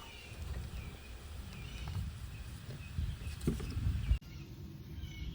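Faint bird chirps over a low rumbling background, with a few light knocks of tool or handling noise.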